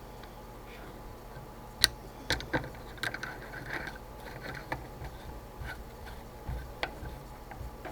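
Scattered sharp metallic clicks and knocks, about seven of them, the loudest about two seconds in, as a mini lathe's compound rest and its bolts are handled and lined up, over a steady low hum.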